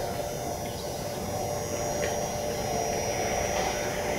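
Steady electric hum of Meitetsu trains at a station, with several steady tones over low rumble. It grows a little louder near the end as an approaching train comes closer.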